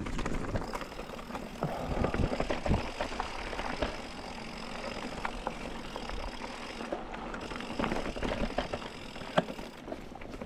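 Mountain bike rolling over rocky singletrack, its tyres running on dirt and stone and the bike rattling and knocking over bumps.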